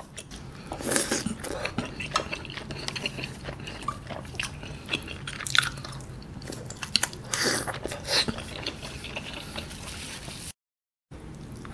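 Close-miked chewing and wet mouth smacks of eating chewy tteokbokki rice cakes in spicy sauce, with small clicks throughout and a few louder bursts of chewing. The sound drops out briefly near the end.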